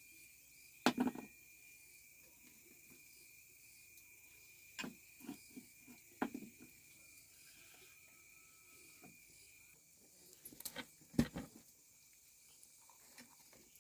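A few scattered knocks and clatters of things being handled, the loudest about a second in and near the end, over a faint steady high-pitched tone.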